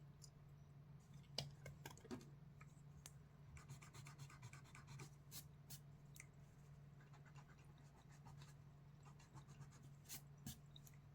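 Faint scratchy strokes and light ticks of a drawing tool sketching on paper, coming in irregular short runs, over a constant low hum.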